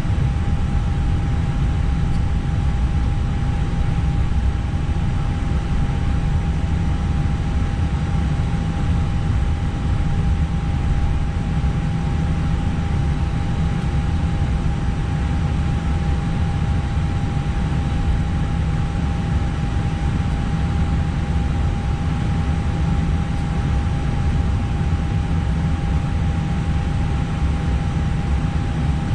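Steady engine and airflow noise heard inside an Airbus airliner's cockpit: a deep rumble under a hiss, with one constant high hum.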